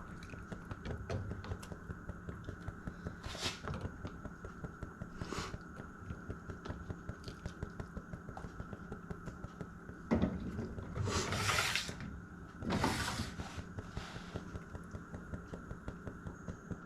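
Kitchen handling noises: small knocks and clinks of items being moved, with a few short scraping or shuffling sounds about ten to thirteen seconds in, over a steady hum.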